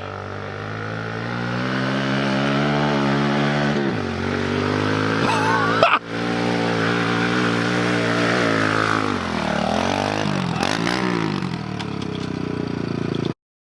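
Dirt bike engine revving as it is ridden, its pitch climbing and falling several times with throttle changes. The sound breaks off briefly about six seconds in and again near the end.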